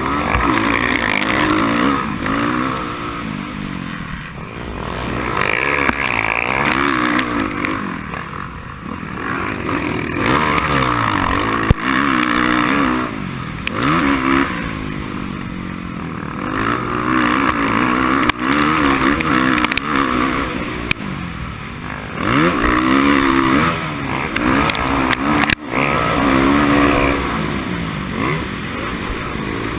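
Racing motorcycle engine revving up and dropping back again and again, every two to four seconds, under hard throttle on the track. Two sharp clicks cut through it, about twelve seconds in and again near twenty-six seconds.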